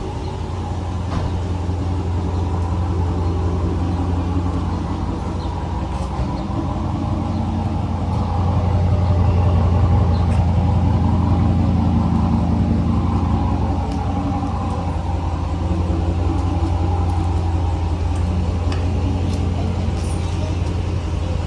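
Car engine running with a steady low rumble that swells louder for a few seconds in the middle.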